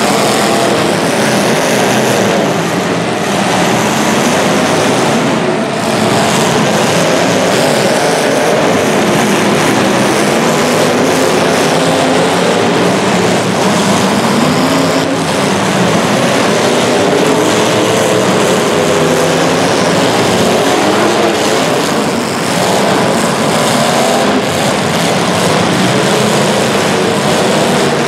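Several racing engines running together, their pitches rising and falling as they rev up and back off.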